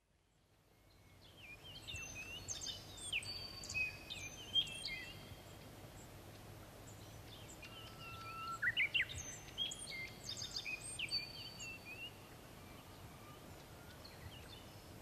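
Several small birds chirping and whistling in short, overlapping high calls over a faint steady outdoor hiss. The calls begin about a second in, after a moment of silence.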